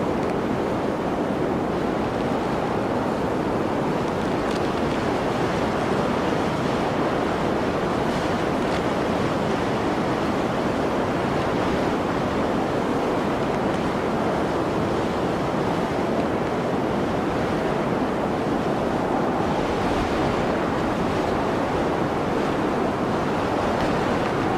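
Blizzard wind, a steady, even rushing noise that holds at one level without gusts or pauses.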